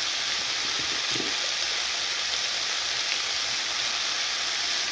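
Mixed vegetables and onions stir-frying in hot oil in a pan: a steady sizzle.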